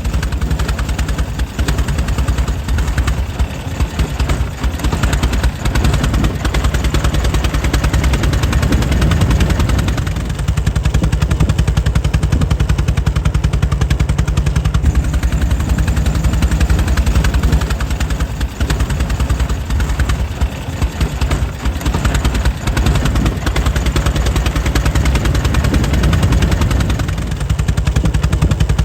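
Air-cooled engine of a 1904 Mitchell running steadily, a rapid, even train of firing beats.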